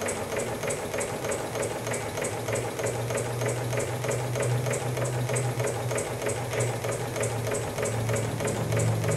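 Small model VATOC engine running steadily, with a hissing patter and a regular ticking beat of about five strokes a second. A steady low hum builds up from about two seconds in.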